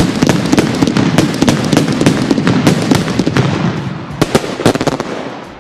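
Fireworks going off: a dense crackle of many sharp pops and bangs, thinning out and fading near the end.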